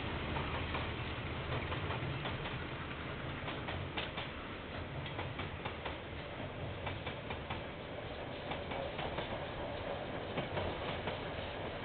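KiwiRail train rolling past: a steady rumble of wheels on rails with a rapid, irregular run of clicks, denser from about four seconds in.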